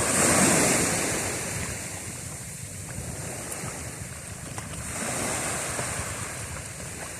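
Ocean waves washing in on the shore, one swell right at the start and another about five seconds in, with wind on the microphone.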